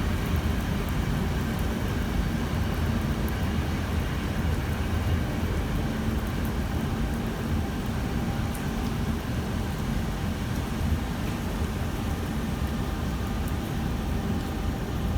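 Steady low rumble of a train, with a faint steady hum over it.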